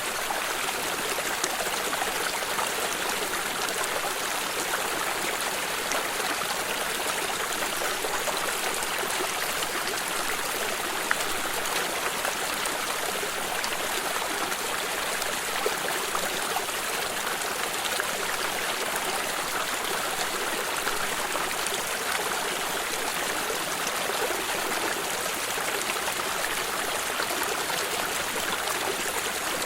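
Water stream running and trickling steadily, an even rushing splash with small droplet clicks throughout.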